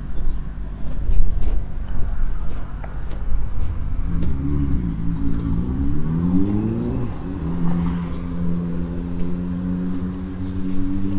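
Road traffic: a vehicle engine revs up and drops back twice, about four to seven seconds in, as it accelerates through a gear change, then settles into a steady hum over a low traffic rumble. A small bird sings short trilling phrases now and then.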